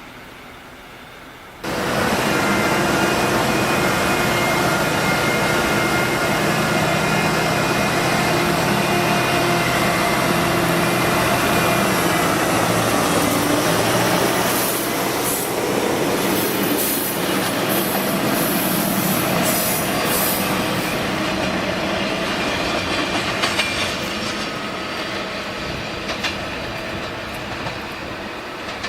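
A train running loudly on the rails, starting abruptly about two seconds in, with steady motor and wheel noise. From about halfway, high-pitched wheel squeals come and go, and the sound eases off near the end.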